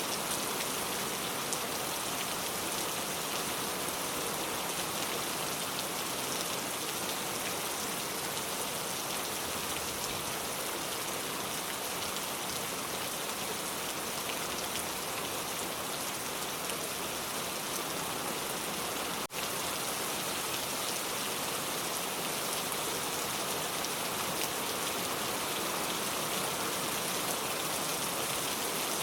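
Steady rain falling, a dense, even patter of drops, with a momentary dropout in the sound about two-thirds of the way through.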